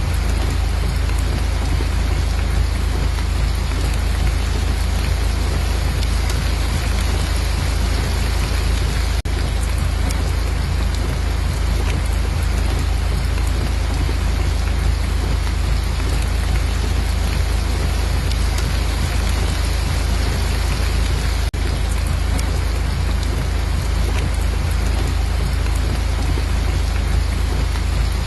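Steady, heavy rain with a deep low rumble underneath, even and unbroken apart from two very brief dips about 9 and 21 seconds in.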